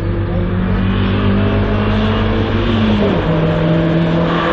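Race car engine accelerating hard, its pitch climbing, then dropping sharply with an upshift about three seconds in before pulling on again.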